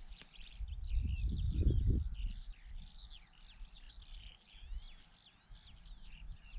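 Songbirds singing, many quick chirping and sweeping notes overlapping throughout. A low rumbling noise between about one and two seconds in is the loudest sound.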